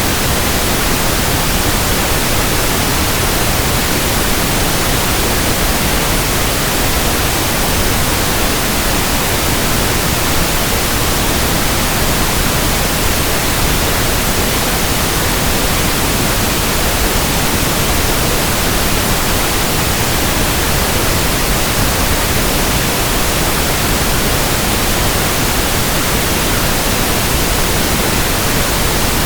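Steady pink noise: an even, unchanging hiss spread across all pitches, with no breaks or other sounds.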